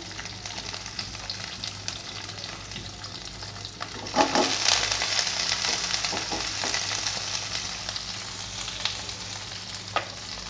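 Chopped onion and garlic sizzling in a little oil in a pan. About four seconds in, a spatula stirs and scrapes them around and the sizzle grows louder, then slowly dies down. A single click comes near the end.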